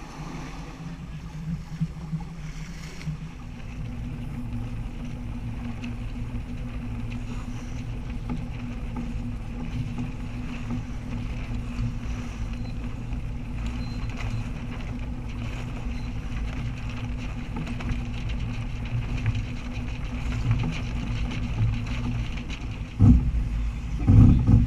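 A boat engine running steadily, with wind noise on the microphone. Two loud knocks come near the end.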